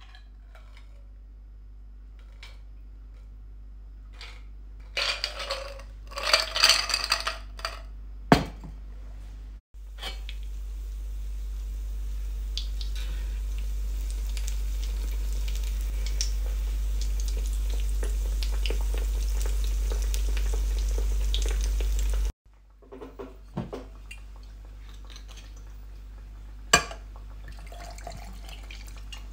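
Clinks of glass and ice first. Then a croquette deep-frying in oil in a small cast-iron skillet, a steady sizzle that grows louder, with tongs turning it. Near the end come a few sharp clinks as whisky is poured over ice in a glass.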